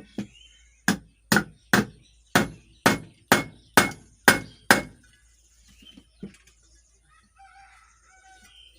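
Nine sharp hammer blows on metal, about two a second, knocking at the bearing seated in a ceiling fan's lower cover to drive it out, followed by a lighter knock. Birds chirp faintly in the background.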